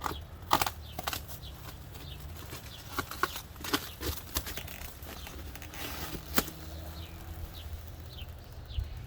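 Packaging being pulled off and handled: irregular crackles, rustles and knocks, the sharpest about half a second in and again past the middle. Short falling bird chirps sound over it now and then.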